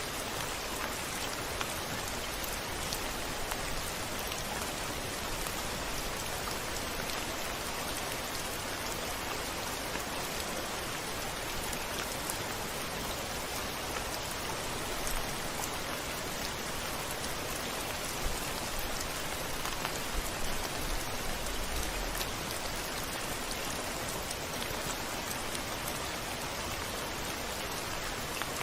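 Steady rain on a window, a dense even hiss of drops. A few brief low thumps come about two-thirds of the way through.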